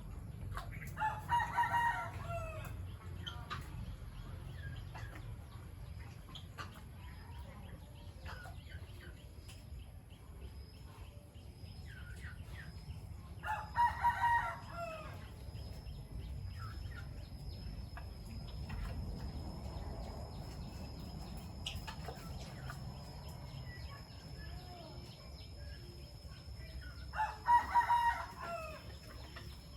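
A rooster crowing three times, roughly thirteen seconds apart, each crow lasting about a second and a half. Between the crows there are faint chirps from small birds over a thin, steady high tone.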